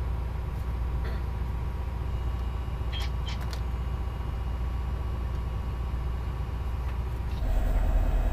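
Tugboat engine running steadily underway, a low drone, heard on board. It has a few brief high chirps about three seconds in, and the drone gets louder with an added hum near the end.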